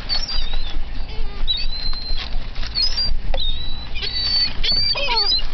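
Gulls calling: many short, high, squeaky calls with quick glides in pitch, and a longer call near the end that falls in pitch, over a steady low rumble.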